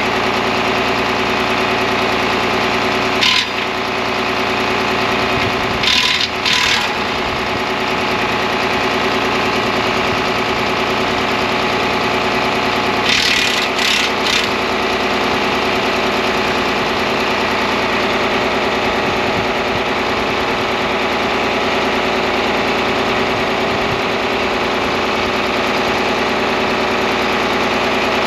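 John Deere 4010 tractor engine idling steadily, with three short bursts of hiss about 3, 6 and 13 seconds in.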